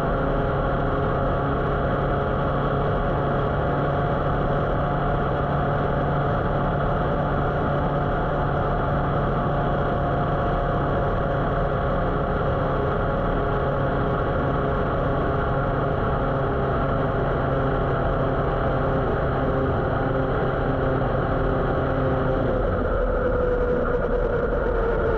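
Motorcycle engine running at a steady speed. Near the end the throttle is closed and the engine note falls slowly as the bike slows.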